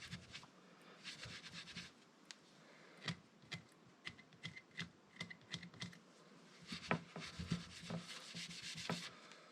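Faint hand-rubbing of chrome engine parts being polished, in uneven strokes with a few light clicks.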